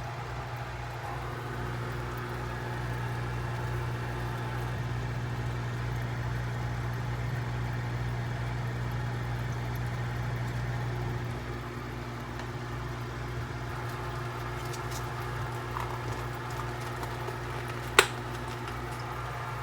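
Steady low mechanical hum that eases slightly about eleven seconds in, with one sharp click near the end.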